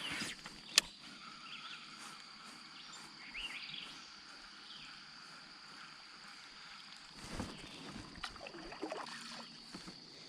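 Quiet outdoor ambience from a kayak on the water: a sharp click about a second in, then faint rustling and light knocks of handling in the boat from about seven seconds on.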